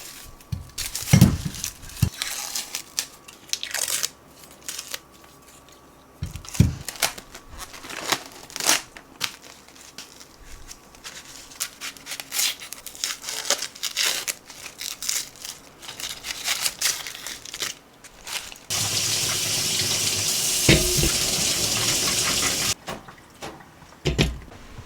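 Household handling noises: packaging crinkling and tearing with scattered clicks and knocks, then a steady rushing noise for about four seconds near the end.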